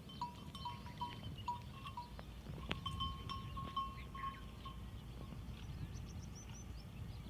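Small metal bell on a camel's neck clinking in short, irregular strokes, falling quiet about five seconds in, with faint bird chirps.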